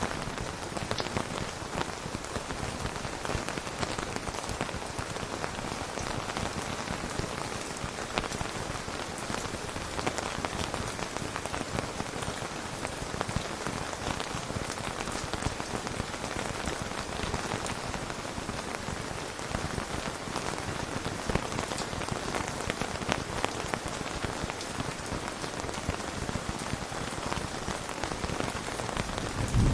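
Steady heavy rain falling on a hard surface, a dense stream of small drop ticks over an even hiss.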